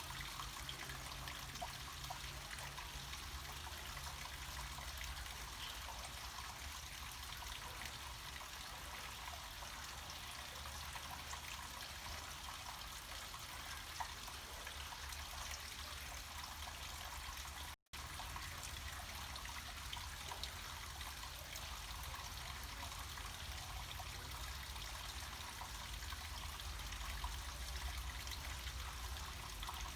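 Small mountain stream of water flowing and trickling steadily down rocks, with a low rumble underneath. The sound cuts out completely for an instant a little past halfway.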